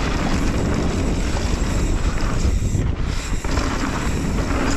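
Steady wind rushing over a helmet or chest GoPro's microphone as a mountain bike rolls down a dirt trail at speed, mixed with the rumble of the tyres on the ground.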